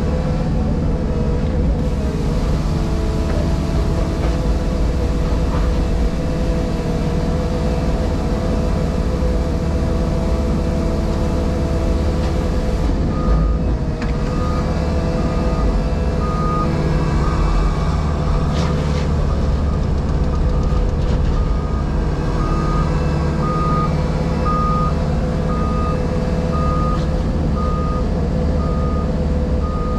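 A JCB Pothole Pro's diesel engine and hydraulics running steadily, heard from inside the cab, with a low rumble and a steady hum. From about halfway through, a reversing alarm beeps about once a second.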